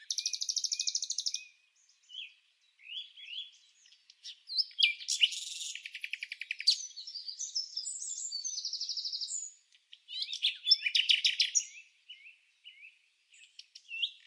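Songbirds singing: chirps, whistled notes and fast trills in phrases, with short pauses between them.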